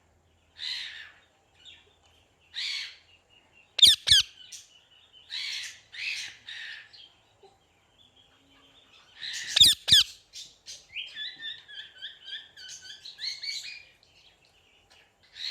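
Parrot calling: a few short raspy squawks, two loud sharp double shrieks about four and ten seconds in, and a quick run of chirping notes after the second pair.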